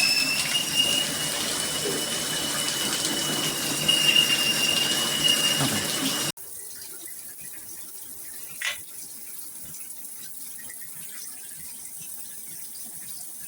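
Water running through a broken, leaking BOWGER handheld shower head, with a steady high-pitched whistle, a 'screaming', over the hiss of the spray. About six seconds in it cuts off suddenly to softer running water without the whistle.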